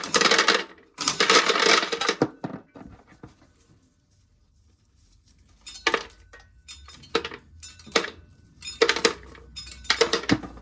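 Dried shelled corn kernels clattering into a metal pail: two loud bursts of rattling in the first two seconds, then a pause, then scattered clicks and short rattles of kernels dropping.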